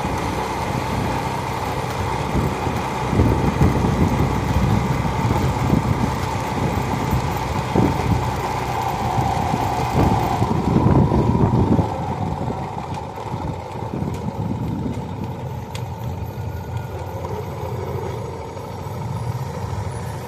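Motorcycle engine running with road noise. It grows quieter about twelve seconds in.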